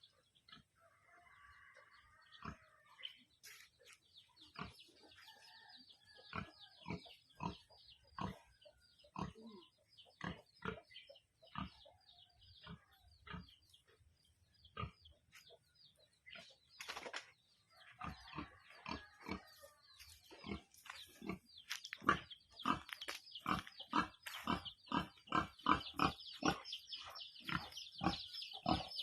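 A hen clucking in short, repeated low calls, with a high-pitched peeping of her newly hatched chicks behind. The clucks are spaced out at first, then come faster and louder for the last several seconds.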